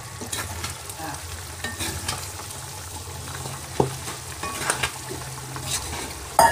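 Pork pieces sizzling as they fry in a thick, oily masala in a wide pan, stirred and scraped with a metal ladle. There is a sharp clank about four seconds in and louder clanks of the ladle against the pan near the end, over a low steady hum.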